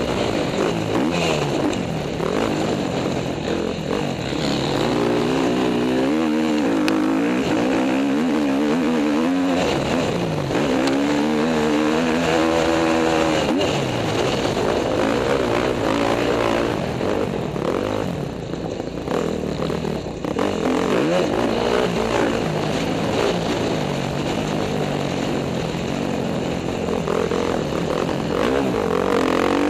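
KTM motocross bike engine revving hard and backing off again and again, its pitch rising and falling as it accelerates and shifts, with a short lull a little past the middle.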